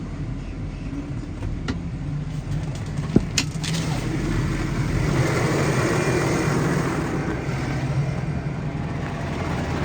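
New Holland T7.190's six-cylinder diesel engine running steadily with the PTO engaged. A few sharp clicks and a knock come about two and three seconds in, and the engine noise then grows louder and fuller.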